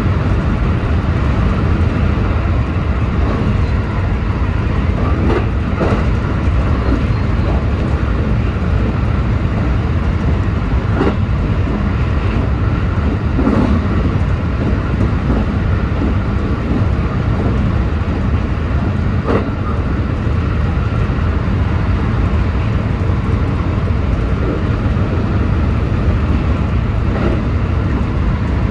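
JR West 223-series electric train running at speed on the line: a steady low rumble of wheels on rail and running gear, with a few faint brief clicks.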